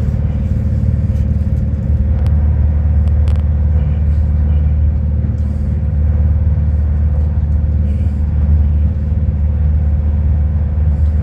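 A moving passenger train heard from inside the carriage: a steady low rumble with a faint steady hum above it, and a few light clicks about two to three seconds in.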